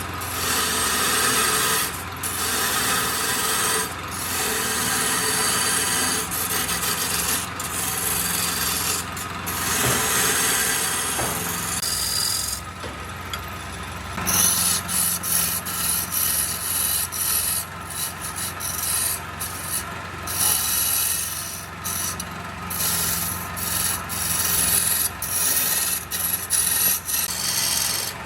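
Wood lathe running while a tool scrapes and cuts the spinning wood, a continuous rasping over a low motor hum, broken by frequent brief gaps.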